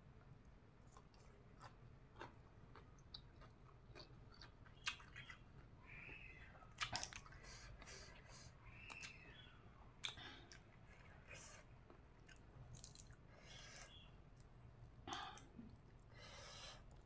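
Faint chewing and mouth sounds of someone eating spicy green papaya salad with raw vegetables, with irregular short clicks, a few louder than the rest.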